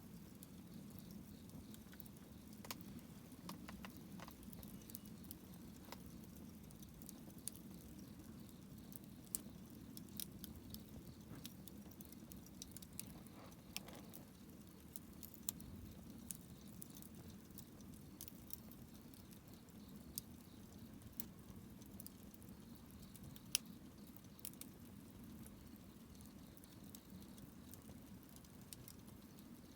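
Wood campfire burning faintly, with scattered sharp crackles and pops over a low steady rumble of the flames; one pop stands out about two-thirds of the way through.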